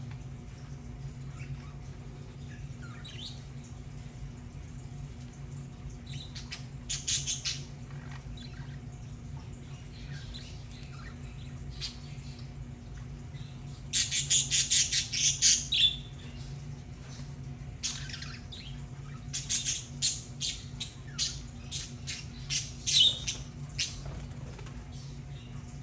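Budgerigars chattering and squawking in several bursts of rapid calls, the loudest about halfway through, over a steady low hum.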